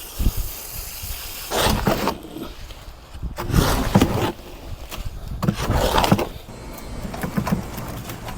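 Concrete being mixed, a wet churning and scraping that comes in bursts about every two seconds.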